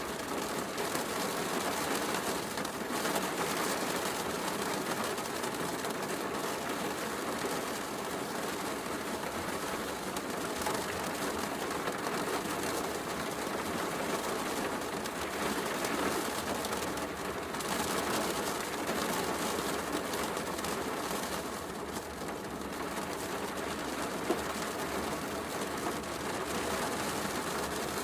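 Steady heavy rain mixed with a crackling wood fire, with one sharper pop near the end.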